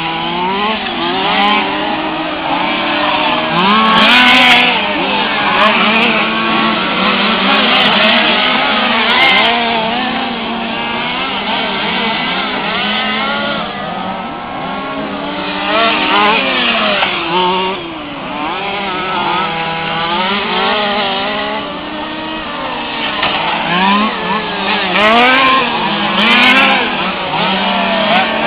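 Several 1/5-scale RC cars' small two-stroke petrol engines racing together. Their pitches overlap, rising and falling as each car accelerates and lifts off around the track.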